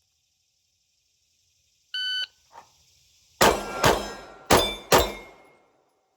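A shot timer gives one short beep, then a Glock 45 9mm pistol fires four shots about a second and a half later. The shots come in two quick pairs, typical of a draw-and-transition drill with two rounds on each of two targets.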